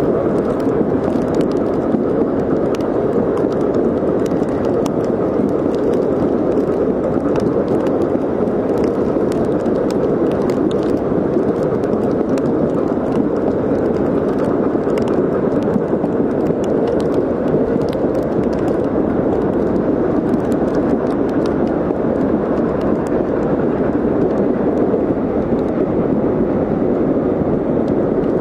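Passenger train rolling along at speed, heard from an open coach window: a steady rumble of wheels on rail and rushing air, with faint scattered clicks.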